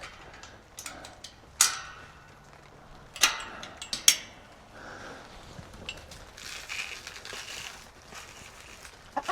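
Chicken feeder being handled and adjusted: a few sharp clanks and knocks, three of them loud in the first half, then a soft rustling stretch.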